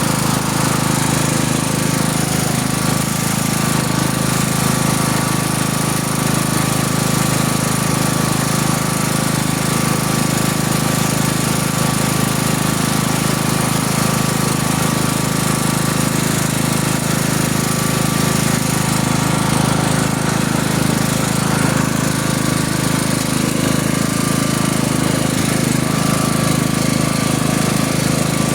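Tractor engine running at a steady speed while under way, an even drone with a thin steady whine above it.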